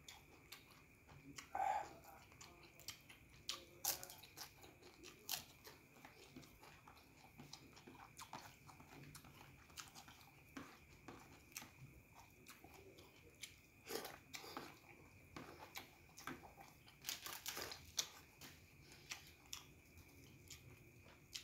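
A person chewing and biting crunchy food, a fried kerupuk cracker, close to the microphone. Irregular crisp crunches come a few times a second, with louder ones about 2, 4, 14 and 17 seconds in.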